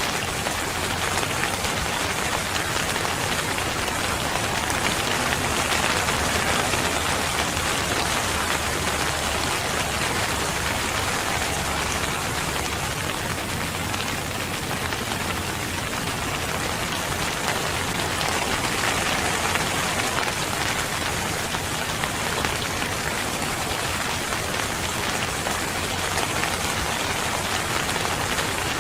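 Steady rain falling and pattering on surfaces, an even dense hiss with no lulls.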